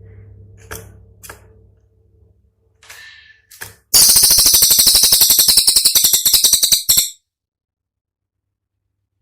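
Cililin song: a few short chirps, then a loud, high-pitched rapid-fire trill of about ten sharp notes a second, the 'tembakan' used as masteran material. It lasts about three seconds and cuts off suddenly, over a faint low hum.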